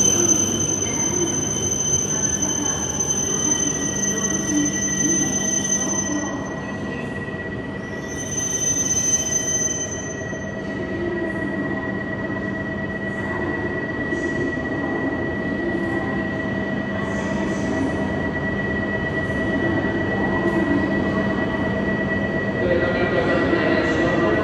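E7 series shinkansen train pulling into a station. A high-pitched squeal sounds for the first six seconds and again briefly about eight seconds in, over a steady whine and hum that last throughout.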